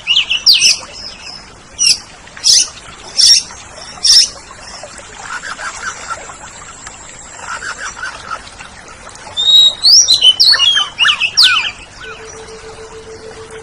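Oriental magpie-robin singing: loud, sharp down-slurred whistles spaced under a second apart, a quieter low chattering trill in the middle, then a rapid burst of varied whistled phrases. A faint steady hum comes in near the end.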